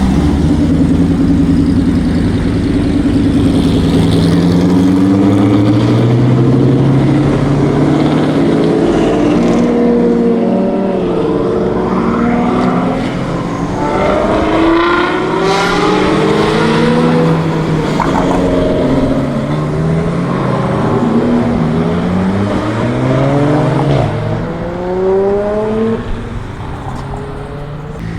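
Performance car engine accelerating hard: its note climbs and drops back at each gear change, over and over, and fades off near the end.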